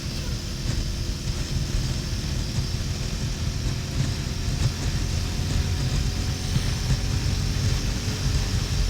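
Harley-Davidson XL1200N's air-cooled V-twin running steadily at motorway speed, with wind noise rushing over the GoPro microphone. The audio is sped up twofold, so the engine drone sits higher and faster than normal.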